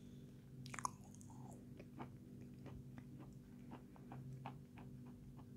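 Faint close-up chewing with the mouth closed: small crunches and clicks, several a second.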